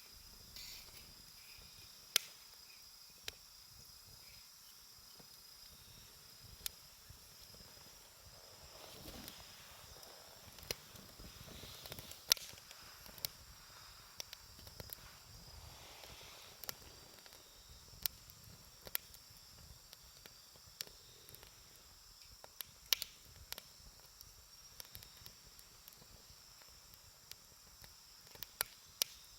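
Wood fire burning, with irregular sharp crackles and pops, a dozen or so louder snaps among fainter ticks, over a soft hiss.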